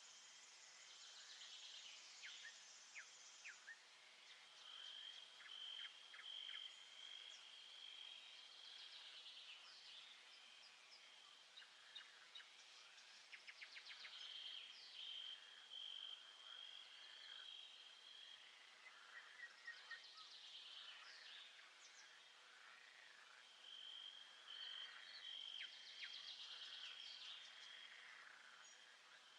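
Faint nature ambience: many birds chirping and calling in short quick notes, with a steady high insect-like trill that sounds in spells of a few seconds, three times.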